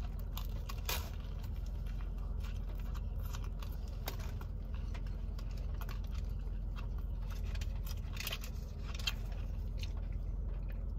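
Biting into and chewing a toasted sub sandwich with crisp bread and crunchy vegetables: scattered small crunches and clicks of the mouth over a steady low hum.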